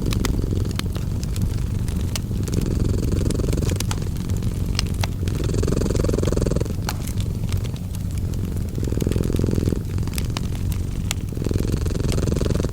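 A cat purring in a low, steady rumble that swells with each breath, about every three seconds, mixed with a fireplace crackling with scattered sharp pops.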